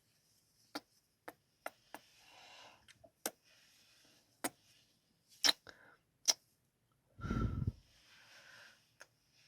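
Close-miked ASMR kissing sounds: about ten sharp, separate lip smacks and kisses, with soft breaths between them. A louder low muffled sound, like a puff against the microphone, comes a little after seven seconds in.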